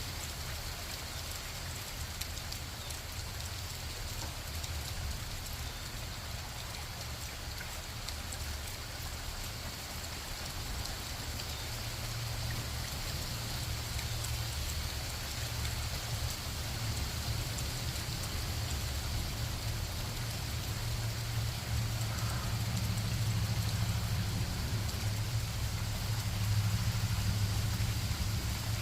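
Steady rain falling, with a fine patter of drops. Under it a low rumble builds slowly and is loudest near the end.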